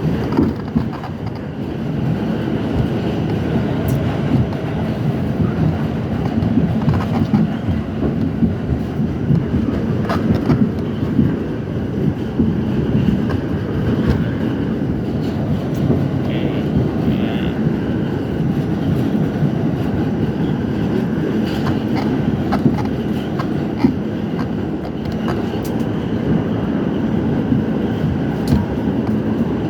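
R68 subway train running on the track: a steady rumble with scattered clicks, and a brief higher-pitched tone a little past halfway.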